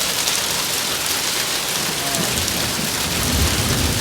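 Heavy rain pouring down steadily, a dense hiss of drops hitting surfaces, with a low rumble near the end.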